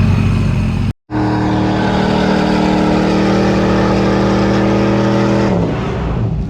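A car engine held at high, steady revs during a burnout, the revs dropping off near the end. A brief cut to silence about a second in.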